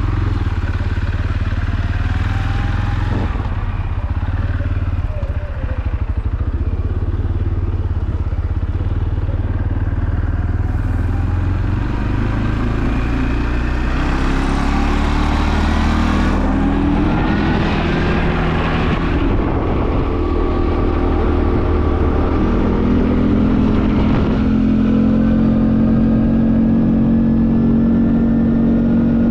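Quad bike engine running while under way, its pitch rising repeatedly as it accelerates about halfway through, then holding a steady note near the end.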